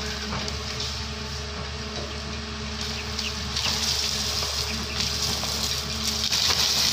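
Doosan excavator's diesel engine running steadily, a constant low hum, with a high hiss that grows louder near the end.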